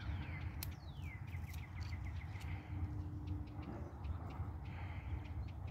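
A bird singing: a slurred note falling in pitch, then a quick run of short chirps, over a steady low rumble.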